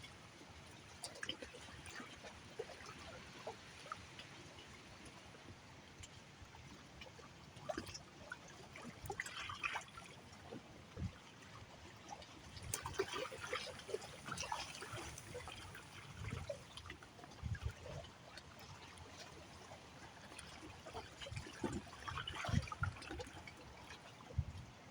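Water trickling, with small, irregular splashes and ticks that get busier and louder in the second half.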